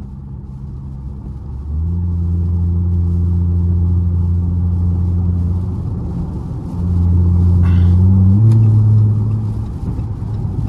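Car engine droning inside the cabin at highway speed. It gets louder about two seconds in as the throttle opens, eases off briefly around six seconds, then gets louder again and steps up in pitch near eight and a half seconds.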